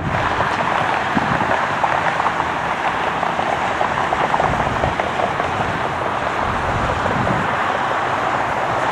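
Steady, even roar of a heavy jet airliner's engines.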